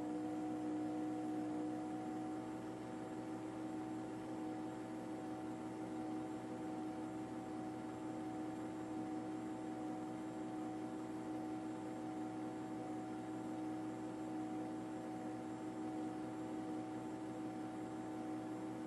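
Steady machine drone: a constant hum with several fixed tones over an even hiss, with no change in level.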